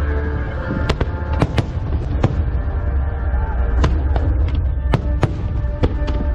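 Aerial fireworks display: shells bursting in about a dozen sharp cracks at irregular intervals over a continuous deep rumble of booms. Music plays along with the show.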